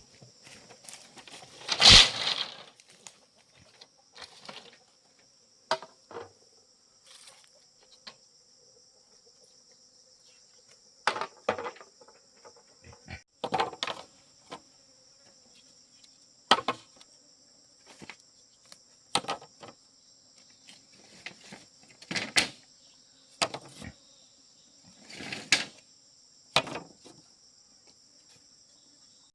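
Steady high-pitched insect chorus, with scattered short knocks and clatters every second or two; the loudest comes about two seconds in.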